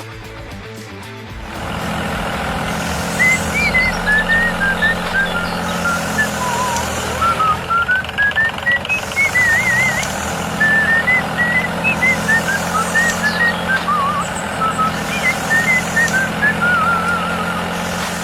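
Tractor engine sound running steadily, with a long run of short, quick, high chirping notes over it.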